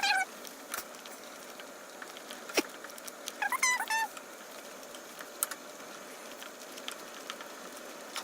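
A few sharp clicks of a spoon against a pot while gravy is stirred. About three and a half seconds in there is a short run of high, wavering animal-like calls.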